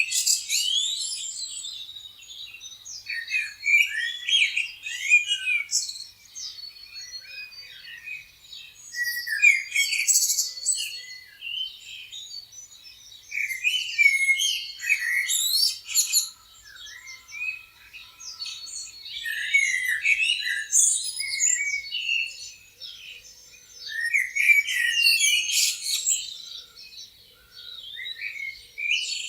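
A chorus of songbirds chirping and singing, many short overlapping calls and trills. The chorus swells into loud clusters every few seconds and thins out between them.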